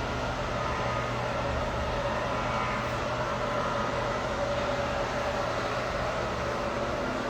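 Steady mechanical drone of running shop machinery: an even noise with a low hum and a few steady whining tones, unchanging in level.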